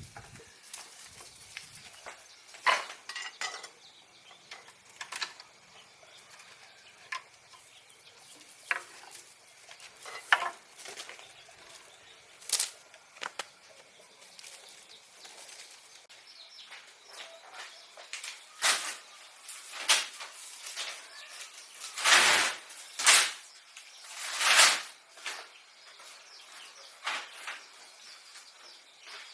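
Irregular light knocks and clatters of objects being handled, with a few louder ones about 22 to 25 seconds in.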